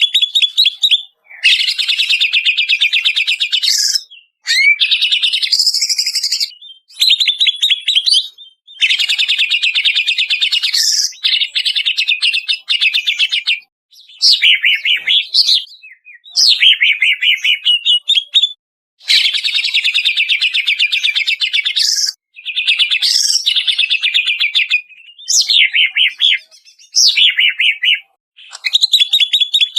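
Greater green leafbird (cucak ijo) singing a long, loud song of rapid chattering trills and sweeping whistles, in phrases a few seconds long with short pauses between them.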